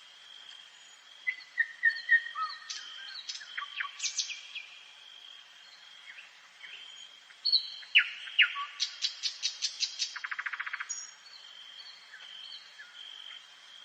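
Nightingale singing: two varied phrases of whistles, sharp notes and repeated clicks, the second building into a fast rattling trill. A steady high-pitched tone runs underneath throughout.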